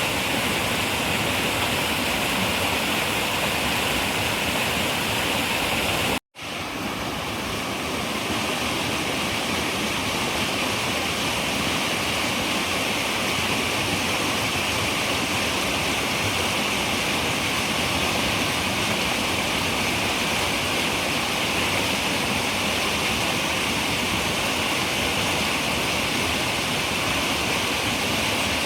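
Running river water, a steady rushing noise. About six seconds in it cuts out completely for a moment, then fades back up over a second or two.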